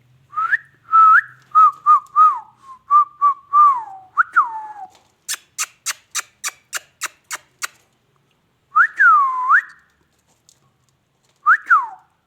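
Pet parrot whistling: a string of short, clear swooping whistles, then a quick run of about ten sharp clicks, then two more rising-and-falling whistles near the end.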